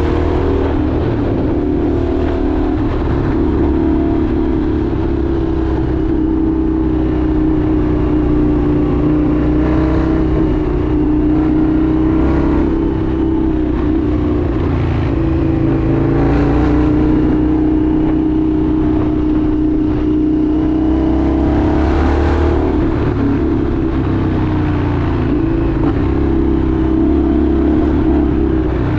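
Indian FTR 1200's V-twin engine running steadily under way, its note rising and dipping a little with the throttle, and a rushing noise that swells a few times.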